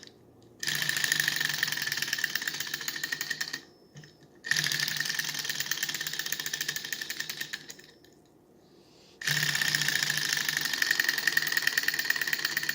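Small model Stirling engine spun by hand three times: each time it starts suddenly with a rapid clatter and a high steady whine, then slows and dies away. It is not yet hot enough to keep running on its own.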